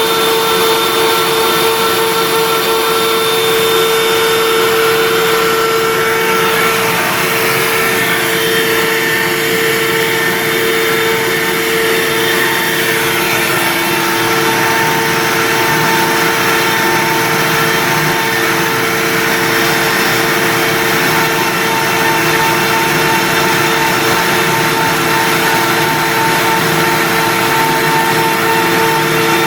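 WorkBee CNC router's spindle running steadily, a constant whine of several tones over a hiss, with the noise shifting slightly at times as the machine works.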